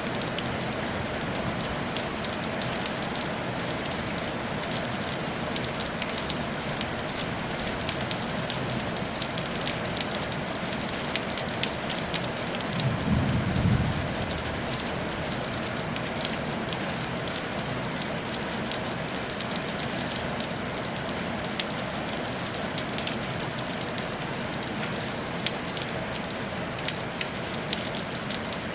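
Steady rain on a tile roof, an even patter with fine individual drop ticks. About halfway through comes a brief low rumble lasting about a second.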